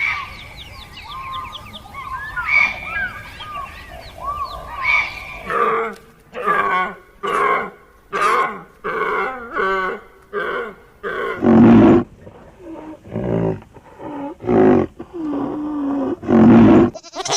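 A few seconds of high chirping calls, then a long series of loud animal calls repeated about once or twice a second, the loudest ones near the middle and the end.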